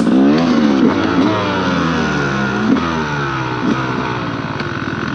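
Dirt bike engine revving, its pitch swinging up and down several times, then holding steadier for the last couple of seconds.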